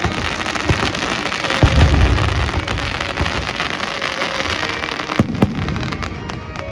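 Fireworks going off: a dense, continuous crackle with a heavy low boom about two seconds in and two sharp bangs a little after five seconds.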